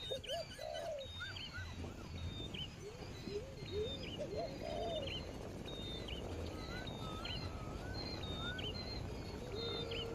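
Several birds calling together, a mix of short rising-and-falling whistled notes and high chirps repeating throughout, with one longer held low whistle near the end, over a steady low background rumble.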